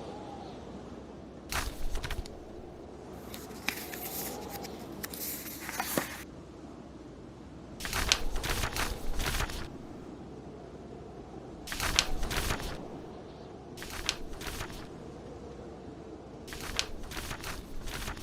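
Paper book pages being turned, about six rustling page turns of a second or two each, over a steady bed of blizzard wind with a faint howl and fireplace crackle.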